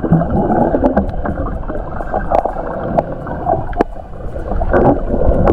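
Muffled gurgling and rushing of water with scattered sharp clicks, heard through a camera held underwater while snorkeling.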